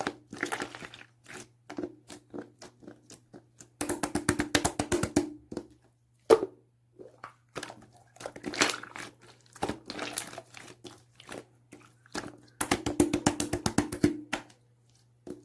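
Orange clear slime being pressed and squished by hand, giving runs of rapid wet clicks and small air-bubble pops, with a few single louder pops between the runs.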